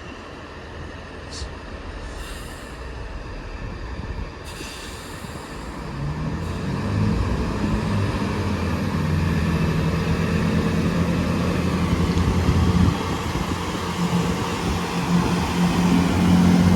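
Class 166 diesel multiple unit pulling out. Its diesel engines power up about six seconds in, with a steady low drone that grows louder as the train moves off.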